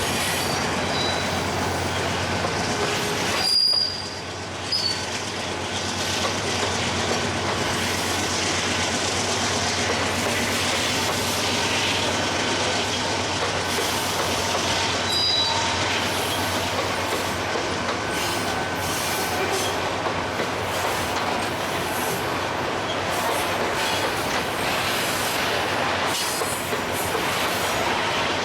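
A freight train rolling past, its wagons rumbling and rattling steadily on the rails. Short high-pitched wheel squeals come about 4 seconds in and again about 15 seconds in.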